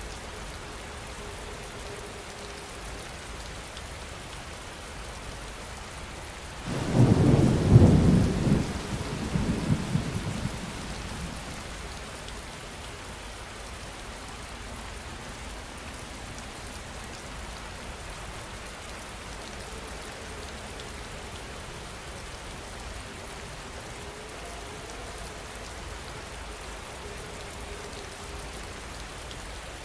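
Steady heavy rain falling, with one thunderclap about a quarter of the way through that breaks suddenly, rumbles for a few seconds and dies away.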